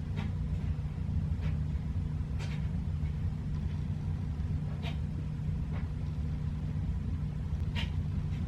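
Steady low background hum, with faint short strokes now and then as a small makeup brush is worked over the skin.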